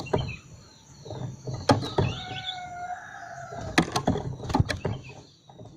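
Bird calls among sharp clicks: a brief high chirp about two seconds in, then a held, crow-like call lasting about a second, with faint steady high tones behind.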